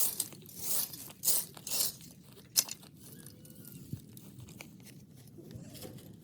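Dry sticks and brush crunching and rustling as they are handled, in four quick bursts over the first two seconds, with a sharp snap about two and a half seconds in, then quieter rustling.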